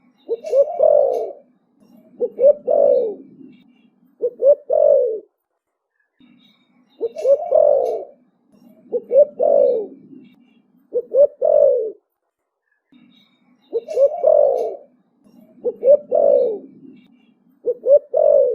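Young spotted dove singing its 'thổ bầu' cooing song. Three phrases of several low coos each, repeated about every seven seconds.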